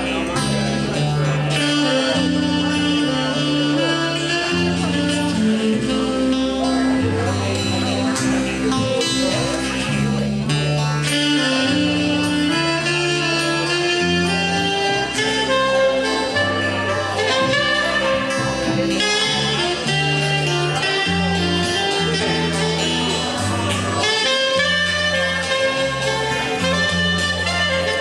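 Small band playing an instrumental, with a saxophone carrying the melody over bass and chords.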